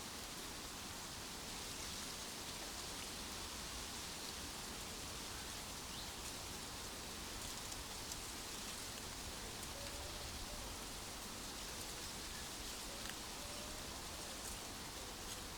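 Steady outdoor nature ambience: an even, hissing wash of noise, with a few faint bird chirps near the end.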